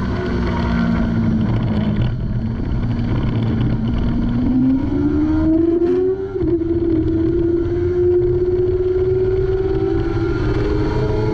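Kawasaki ZX-6R 636's inline-four engine heard onboard at speed. The revs hold roughly level for about four seconds, climb under acceleration, drop sharply at an upshift about six seconds in, then climb slowly again as the bike gathers speed.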